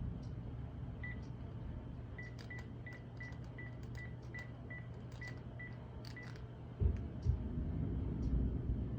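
A run of short, high electronic beeps, about three a second, then about seven seconds in a sudden low rumble of thunder that keeps rolling, louder than the beeps.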